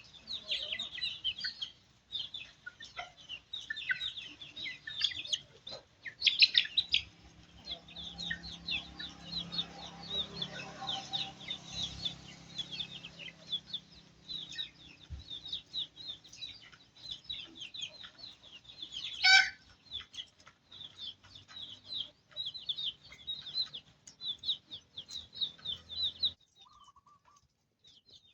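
Chickens, mostly many chicks peeping: a dense stream of short, high chirps, with one louder squawk about 19 seconds in. The sound cuts off suddenly near the end.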